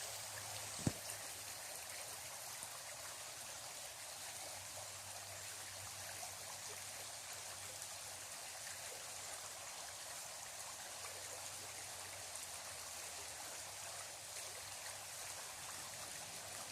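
Faint, steady rush of flowing creek water, with a single short knock about a second in.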